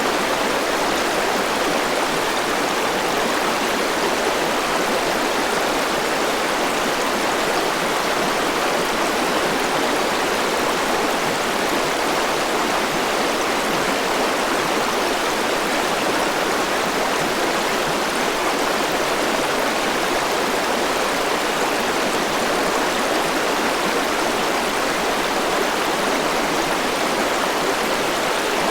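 Forest river rushing steadily over rocks: an even, continuous water noise with no breaks.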